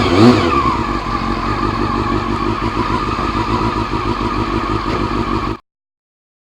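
Honda CBR400 inline-four motorcycle engine running steadily under the rider, with a brief change in engine pitch at the start, cutting off abruptly about five and a half seconds in.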